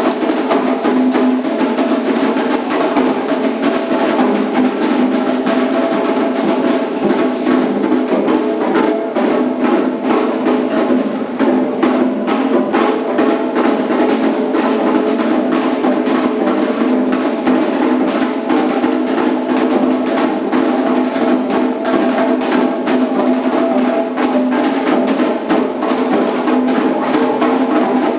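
Candomblé ritual drumming: hand drums (atabaques) with a struck metal bell or wood-block-like part, playing a fast, unbroken rhythm.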